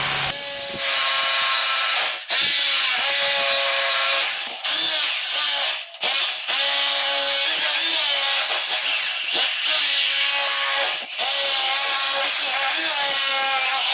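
Handheld power tool working on an old concrete foundation, running loud in long spells with short breaks, its pitch sagging and recovering as it bites.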